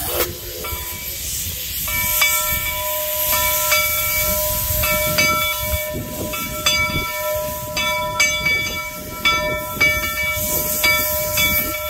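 Narrow-gauge steam locomotive blowing its whistle: a steady chord of several tones held for about ten seconds, starting about two seconds in, over a constant hiss of steam.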